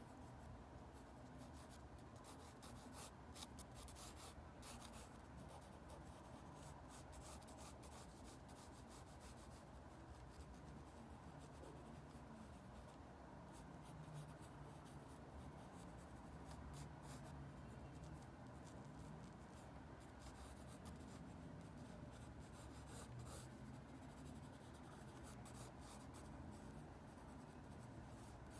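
Faint scratching of a drawing tool on paper: many short, irregular strokes.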